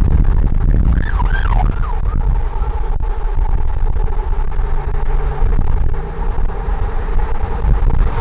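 Strong wind rumbling on the microphone, with a siren wailing: the tone swoops up and down quickly about a second in, then holds a steadier pitch.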